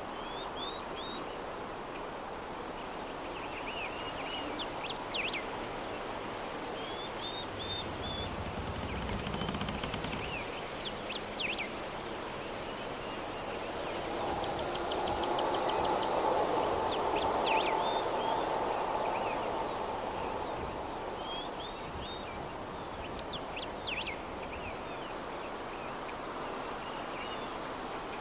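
Steady soft breeze, swelling louder for a few seconds in the middle, with small birds chirping in short quick bursts every few seconds.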